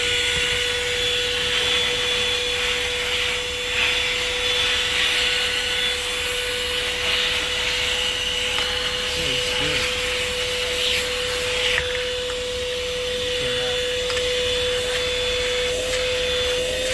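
Corded car vacuum cleaner running steadily with an even motor whine, its hose nozzle rubbing and scraping over a car seat as it picks up dirt.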